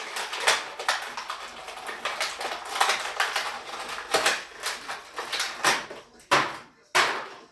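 Plastic toy packaging crinkling and rustling as it is handled and pulled open, in quick irregular crackles, with two sharper crackles near the end.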